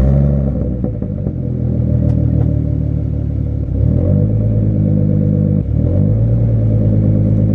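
A 2013 Ford Mustang's 3.7-litre V6 engine running loud, its engine note shifting in pitch twice, about four and about six seconds in.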